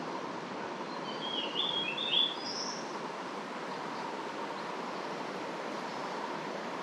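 Steady rush of a creek flowing, with a bird calling a short phrase of a few quick chirping notes about one and a half seconds in.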